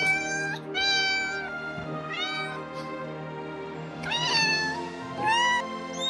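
Domestic cat meowing five times, most of the meows rising in pitch, over steady background music.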